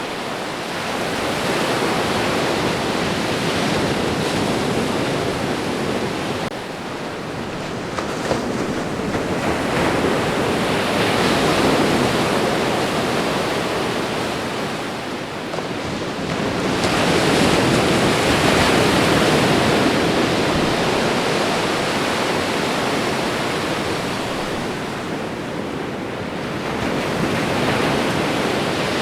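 Ocean waves breaking and washing on the shore, the surf swelling and falling back every several seconds.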